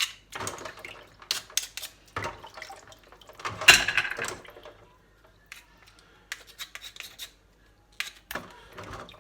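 Mussel shells knocking and scraping against each other as they are handled and cleaned, in irregular clattering bursts, the loudest about three and a half seconds in.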